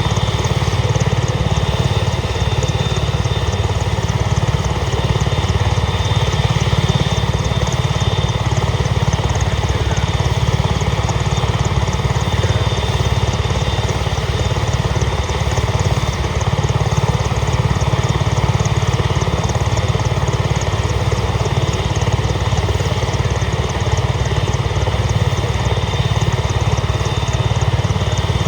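Italian Navy AgustaWestland EH-101 Merlin helicopter, its three turboshaft engines and rotor running steadily, with a thin steady high whine over a heavy low drone.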